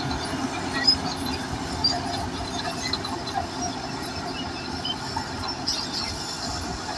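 Crawler bulldozer at work: the diesel engine runs steadily under load while the steel tracks clank and squeak.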